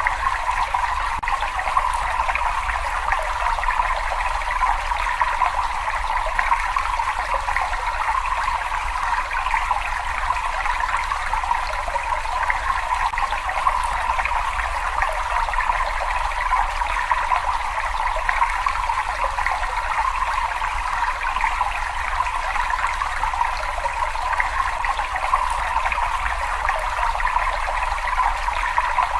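Running water trickling and splashing in a continuous, even rush with no breaks or changes.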